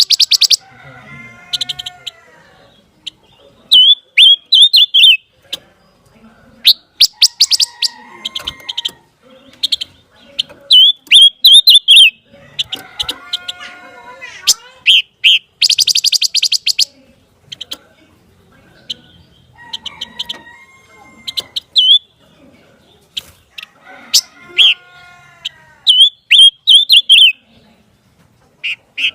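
Pancawarna songbird singing a varied, repeating phrase: rapid dry rattling trills, high warbled notes and lower squeaky downward-curving notes, with the sequence coming round again about every six seconds.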